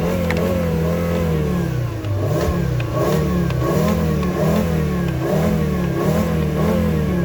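Car engine revved by pumping the gas pedal: held at high revs, then falling away about two seconds in, followed by a series of quick revs that each rise and fall.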